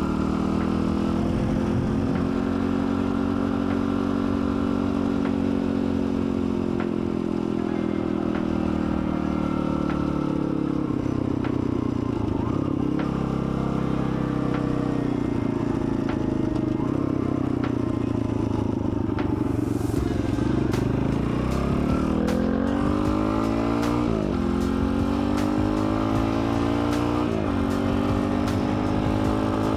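Dirt bike engine running under way, its pitch rising and falling with the throttle; near the end the revs climb steeply and then drop sharply twice. Faint clicks and clatter come through in the second half.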